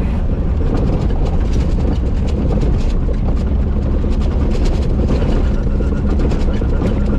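A vehicle driving over a rough desert dirt track: a steady, loud low rumble of engine and tyres, with frequent short rattles and knocks from bumps.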